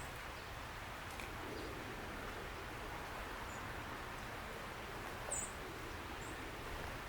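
A small bird giving three short, high chirps, the loudest about five seconds in, over a steady background hiss.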